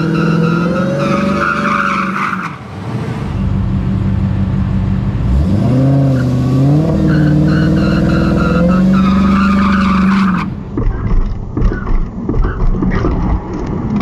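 Dodge Challenger Hellcat's supercharged V8 idling, then revving up about five seconds in and held high through a burnout, tyres spinning. About ten seconds in the engine sound cuts off, followed by uneven rumbling and bumps.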